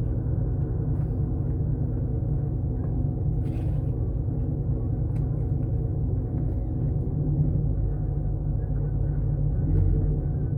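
Pickup truck engine running steadily with a low rumble as the truck pulls out from under the slide-in camper. A brief scratchy noise is heard about three and a half seconds in.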